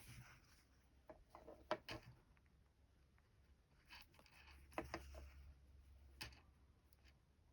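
Near silence with faint rustles and a few soft ticks of hand embroidery: thread being drawn through fabric by a needle, in small scattered strokes.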